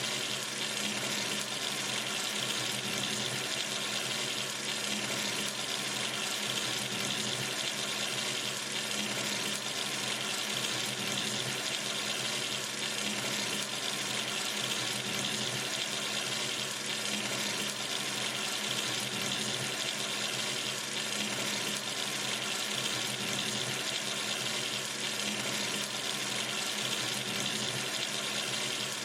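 Tap running steadily into a sink, an even splashing hiss that does not change.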